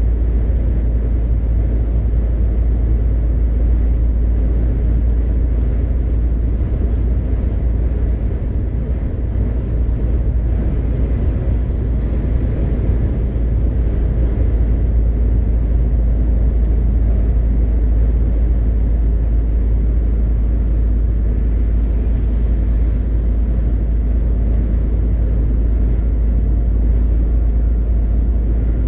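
MAN TGX 520 truck driving at a steady pace: the constant deep drone of its straight-six diesel engine mixed with road and wind noise, with no gear changes or sudden sounds.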